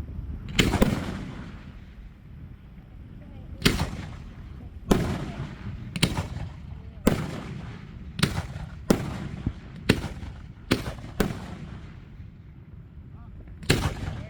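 Aerial fireworks shells bursting: a run of about eleven sharp booms, mostly a second or so apart, each followed by a rumbling echo.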